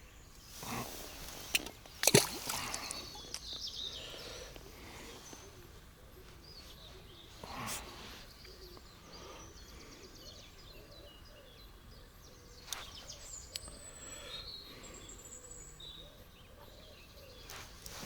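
Outdoor ambience with small birds chirping, and a few sharp knocks and handling noises, the loudest about two seconds in.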